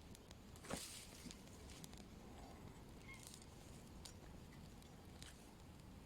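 Near silence: quiet outdoor background with one short rustle or crunch a little under a second in and a few faint clicks afterwards.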